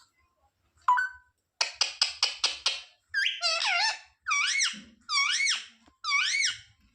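Parrot calling: a sharp note about a second in, then a quick run of about six harsh squawks, then four whistled calls that each rise and fall in pitch.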